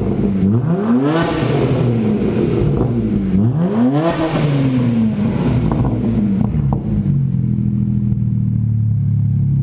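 BMW 335i turbocharged 3.0-litre straight-six revved twice through a 3.5-inch stainless steel cat-back exhaust with high-flow downpipes, its pitch climbing and falling back each time before it drops to a steady idle. The sound echoes off the walls of a building.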